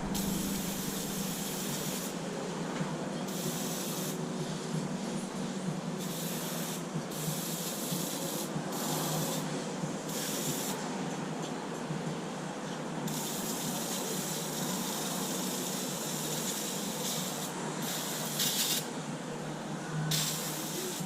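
Engine degreaser being sprayed over an engine bay in repeated bursts that start and stop every second or two.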